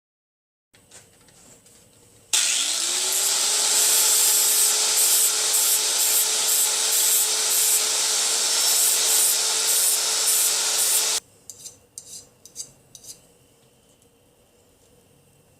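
A small power tool's motor spins up quickly to a steady high whine and runs for about nine seconds with a loud grinding hiss as it works brass pipe, then cuts off suddenly. Faint handling clicks come before and after it.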